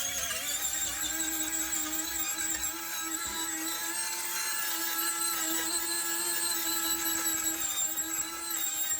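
Electric power tool running steadily with a continuous whine.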